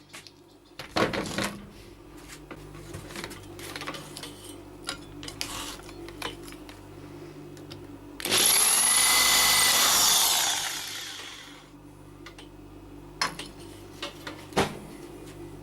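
A handheld power tool runs for about two seconds and then winds down, between scattered light knocks and taps of metal work.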